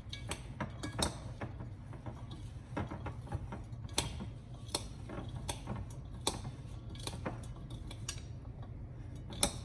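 Spoon clinking and scraping against a mixing bowl while a quinoa salad is stirred, with irregular sharp clinks about once a second.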